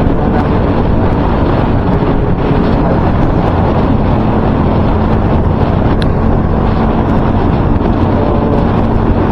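Loud, steady wind noise rumbling on a microphone that has been wrapped in electrical tape, which has not stopped the wind noise.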